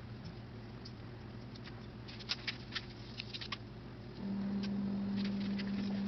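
Faint scattered clicks and light wet taps from hands skinning thawed frozen tomatoes. About four seconds in, background music comes in on a held low note.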